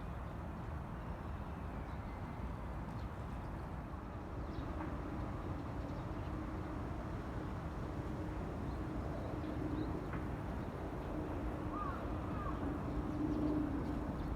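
Outdoor city ambience: a steady low rumble with a steady hum that swells in the second half, and a few short bird chirps near the end.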